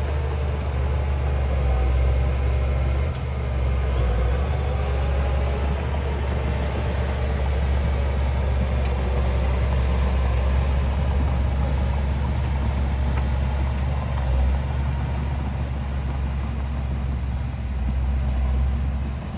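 Heavy construction machine's diesel engine running steadily with a low drone.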